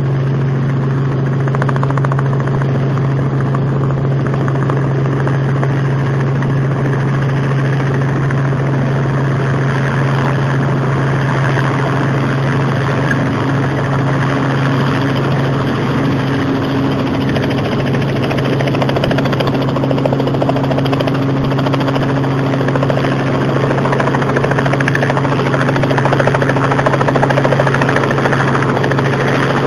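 Robinson piston helicopter in flight: the steady drone of its rotor and engine over a broad rushing noise, with a higher steady tone joining about twelve seconds in.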